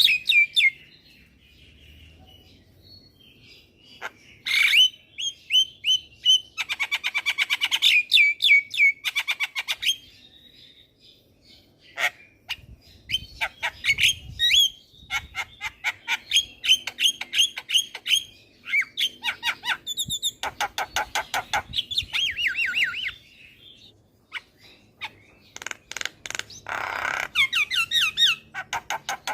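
Javan myna singing: bouts of fast, repeated harsh chattering and whistled notes, broken by short pauses of a second or two.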